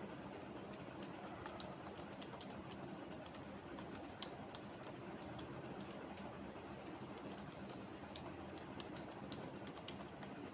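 Typing on a computer keyboard: light, irregular key clicks in quick runs, over a steady low background hum.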